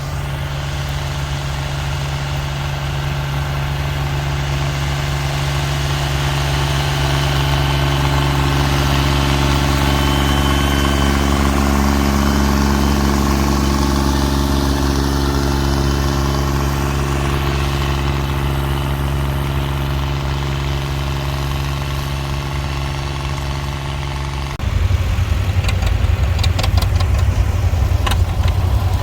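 Tractor engine running steadily, swelling louder toward the middle and then easing off. About 25 seconds in, it gives way abruptly to a different, louder engine sound.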